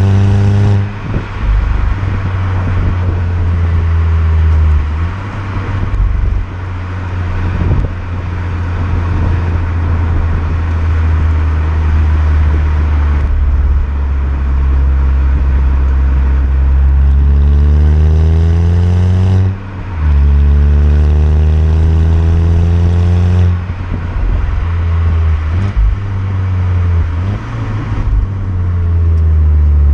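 VW Golf Mk6 GTI's stock 2.0 TSI turbocharged four-cylinder driving along with a steady low engine note. Later it accelerates, revs rising, breaks briefly for a gear change about twenty seconds in, rises again through the next gear, then eases off.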